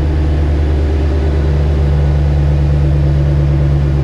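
Car engine running at a steady idle, a low even drone.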